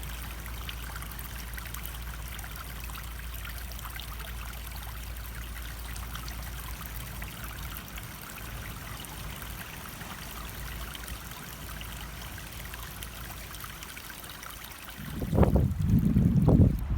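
Stream water running and trickling steadily. Near the end a much louder, low, uneven rumble comes in and drowns it out.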